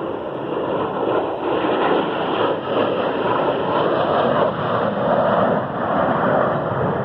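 Jet aircraft flying past at an air show, a loud, steady jet-engine rush.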